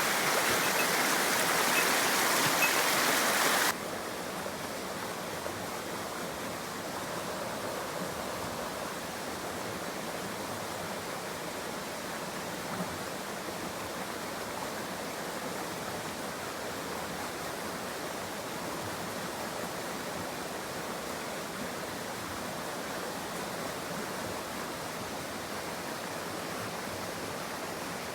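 Mountain stream rushing over rocks, a steady wash of water noise. About four seconds in it cuts abruptly to a quieter, softer flow that stays steady.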